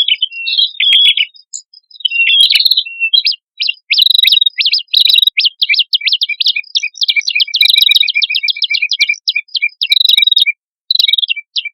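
Prenjak kepala merah, a small Indonesian prinia-type warbler, calling vigorously: short phrases of sharp high chirps, then a long unbroken train of quick notes at several a second.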